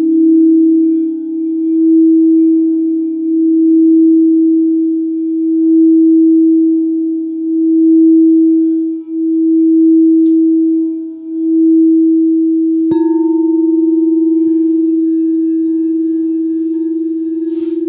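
Singing bowl sounding one sustained low tone that swells and fades about every two seconds. About thirteen seconds in there is a sharp knock, after which the tone holds steadier with a higher ring added above it.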